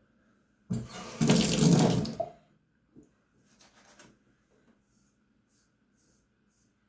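A sink tap runs for about a second and a half, then shuts off. Faint short scraping strokes of a disposable razor on the scalp follow, about one or two a second.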